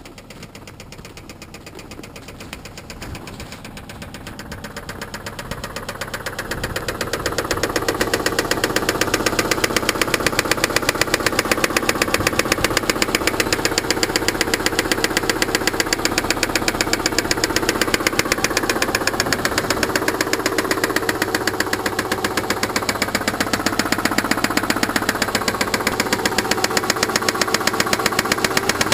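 Subaru engine running at a steady idle with a rapid, regular knock, growing louder over the first several seconds and then steady. The owner takes the knock for something worse than normal piston slap.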